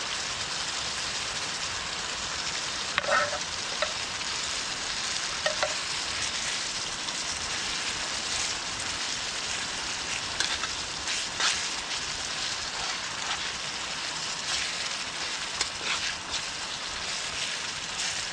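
A vegetable dish sizzling steadily as it fries in a pan, with a spoon clicking and scraping against the pan now and then as it is stirred.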